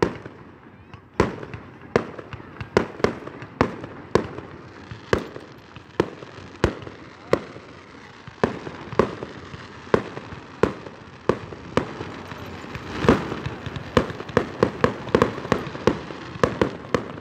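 Aerial fireworks display: shells bursting one after another with sharp bangs, about two a second, coming thicker in the last few seconds.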